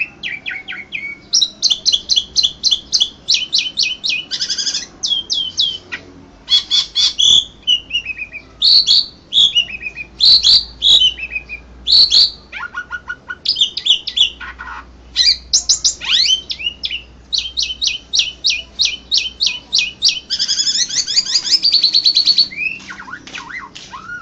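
Pied starling (jalak suren) singing a long, varied contest song. Quick runs of repeated chattering notes mix with sliding whistles, with only brief pauses between phrases.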